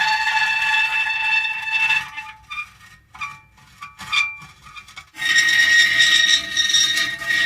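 Metal creaking and squealing: drawn-out high squeals at several pitches at once, dying down to a few short squeaks in the middle, then a loud sustained squeal again from about five seconds in.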